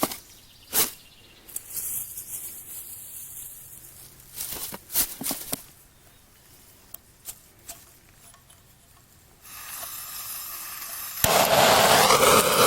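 A few sharp clicks and knocks as the bee smoker is handled, then a gas torch lit into the smoker to start its fuel. About two seconds before the end, a loud, steady rushing hiss of flame sets in and keeps going.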